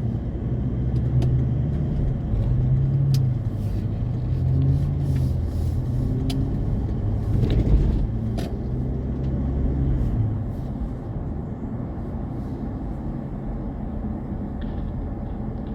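Car driving, a steady low rumble of engine and road noise with a wavering engine hum that drops away about ten seconds in, leaving a quieter rumble.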